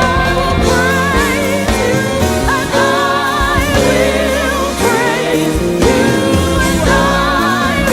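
Live worship band playing, with a lead vocalist singing long held notes with vibrato over sustained keyboard or guitar chords and bass.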